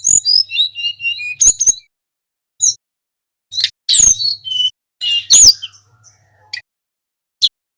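Sulingan gunung singing: bursts of high, quick whistled notes with sharp up-and-down sweeps, broken by short gaps.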